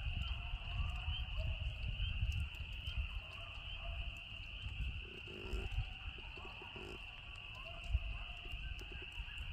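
A chorus of spring peepers calling as one steady high-pitched band, with coyotes howling and yipping in wavering, sliding calls over it. A low rumble runs underneath.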